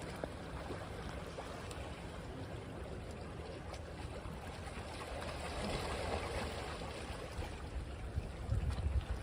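Ocean waves washing onto a beach, a steady wash of surf that swells about two-thirds of the way through, with a low rumble of wind on the microphone near the end.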